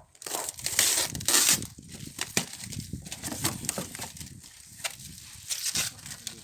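Packaging being handled and torn open while unboxing a wood stove: crinkling, rustling and tearing in irregular bursts, loudest about a second in, with scattered clicks.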